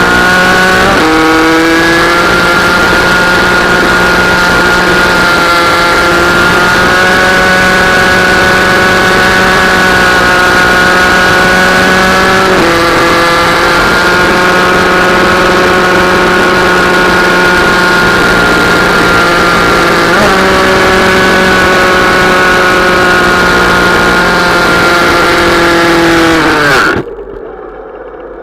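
Minibike engine running hard at high revs, its note holding steady between a few sudden pitch steps as gears change. Near the end the note sags and the sound cuts off abruptly.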